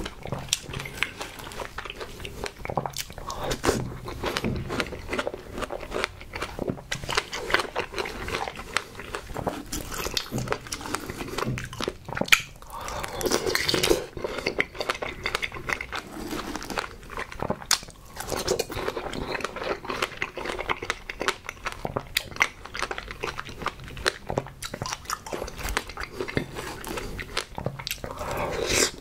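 Close-miked chewing and biting of whole strawberries with whipped cream, a steady run of short mouth clicks and smacks.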